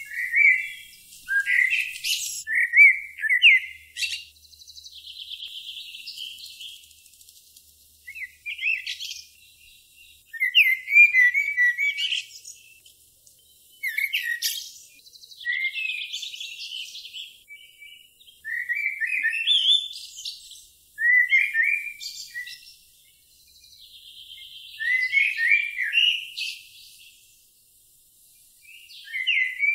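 A songbird singing short, high-pitched chirping phrases every few seconds, some of them ending in a buzzy trill.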